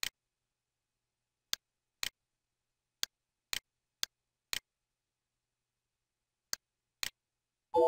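Computer mouse button clicks, about nine of them spread over several seconds, several heard as a quick press-and-release pair, with silence between. At the very end a short electronic chime of several tones begins.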